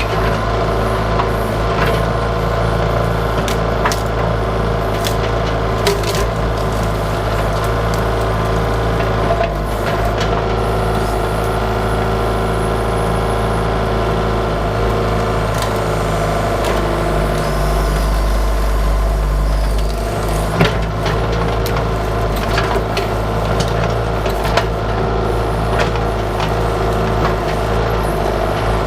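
Bobcat 331 mini excavator's diesel engine running steadily under hydraulic load, with many sharp cracks and snaps of woody bush roots and branches breaking as the bushes are dug out.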